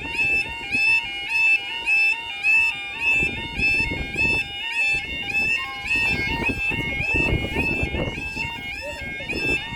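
UK level crossing warning alarm sounding: an electronic two-tone alarm that alternates rapidly and steadily between two pitches. A rumble rises beneath it through the middle.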